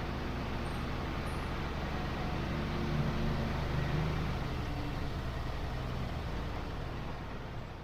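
Mercedes-Benz Unimog 404 truck's petrol inline-six running steadily on the move, swelling slightly about three seconds in and easing toward the end.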